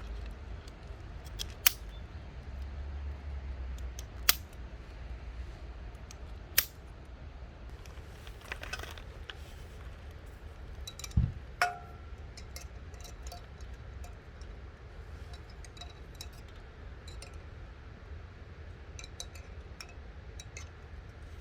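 Camping gear being handled: three sharp clicks a couple of seconds apart, then a knock about halfway through followed by a short ringing clink and lighter ticks, over a low steady rumble.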